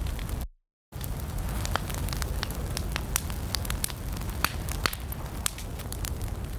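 Wood fire burning in a fireplace: a steady low rumble of flames with frequent sharp, irregular crackles and pops from the logs. The sound cuts out completely for about half a second near the start, then resumes.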